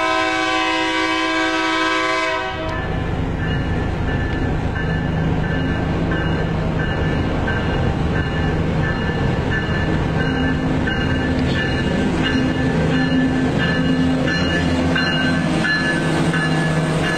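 Santa Fe locomotive 2742's horn sounds a loud chord and cuts off abruptly about two and a half seconds in. Then comes a steady rumble of the moving train and car, heard from inside the Volkswagen Beetle's cabin, with a short high ring repeating about three times every two seconds.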